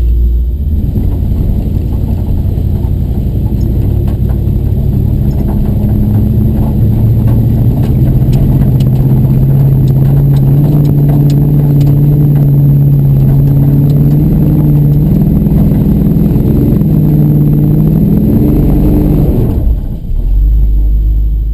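A tow truck's engine working hard under load while towing a truck up a snowy hill; its revs climb partway through and hold high, then drop off near the end as the climb fails.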